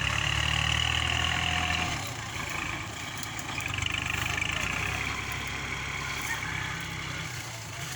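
Kubota tractor's diesel engine running, louder for the first two seconds, then settling to a lower, steady run.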